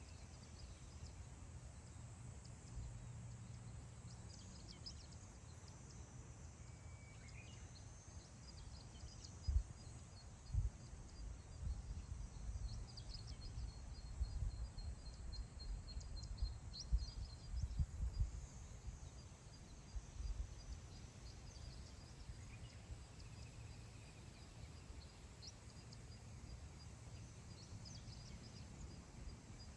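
Wind blowing across open grassland, rumbling on the microphone and gusting harder through the middle. Faint wild bird chirps and a thin rapid trill sound high above it.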